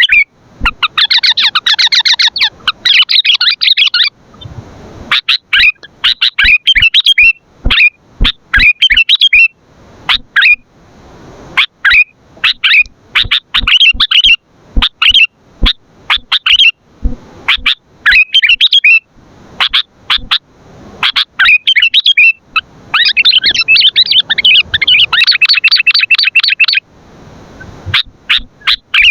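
Sooty-headed bulbul (kutilang) calling loudly: a long run of short, sharp chirps, broken twice by several seconds of fast chattering trills, about a second in and again near the end.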